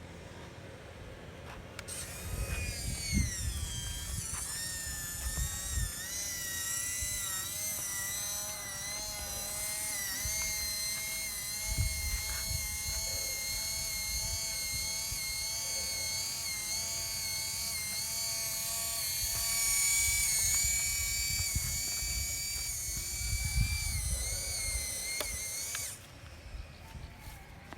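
Small electric motors of a radio-controlled construction truck whining, the pitch wavering and shifting up and down as speed and load change, with occasional low thumps underneath. The whine starts about two seconds in and stops a couple of seconds before the end.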